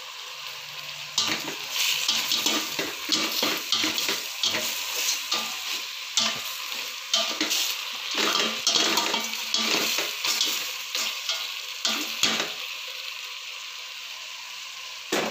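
Chicken and pork pieces sizzling in a stainless steel pot as they are stirred, with repeated scraping and clacking against the pot from about a second in. The stirring stops near the end, leaving the sizzle, then a single sharp knock.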